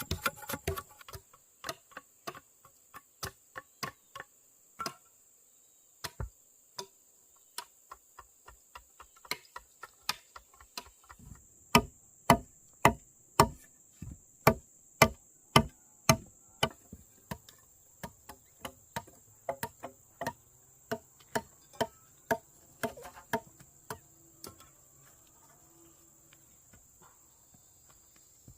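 Hammer blows on wood, a long irregular run of sharp knocks that speeds up to about two a second and is loudest in the middle, over a steady high drone of insects.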